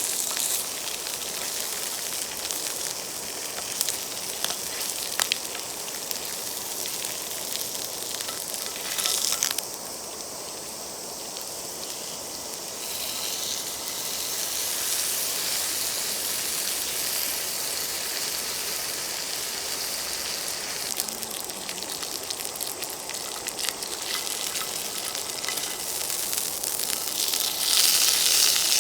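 Campfire crackling, with scattered sharp pops over a steady hiss that grows louder near the end.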